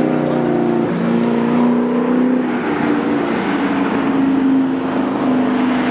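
Racing car engines running hard on the circuit: several loud engine notes at once, with a pitch drop about a second in and then steady high-revving tones.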